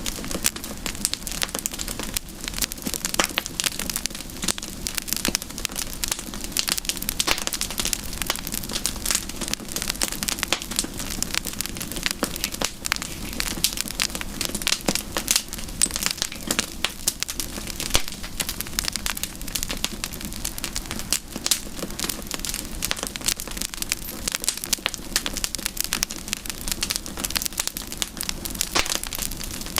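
Campfire crackling steadily, with a dense run of small, irregular pops and snaps.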